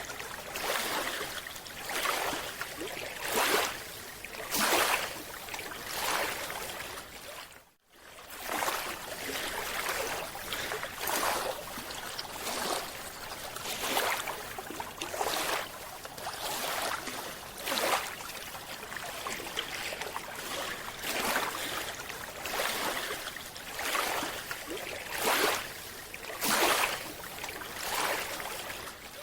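Water sloshing and rushing in uneven surges, roughly one a second, breaking off briefly about eight seconds in.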